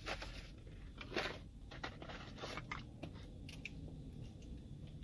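A person chewing food close to the microphone: a series of soft crunches and mouth clicks, the loudest about a second in.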